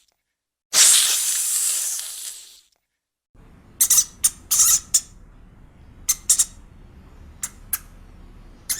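A loud hiss lasting about two seconds, then, after a short break, a series of short high-pitched animal squeaks or chirps in small clusters over a low steady background rumble.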